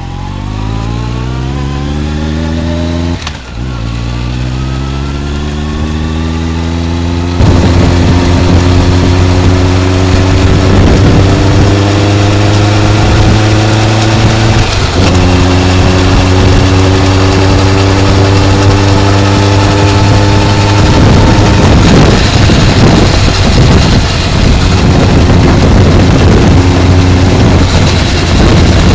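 Honda CB motorcycle with a titanium full exhaust, engine pitch climbing under acceleration and dipping briefly at gear changes about 3 and 15 seconds in. From about 7 seconds in, heavy wind noise on the microphone rises over the exhaust note as the bike runs on.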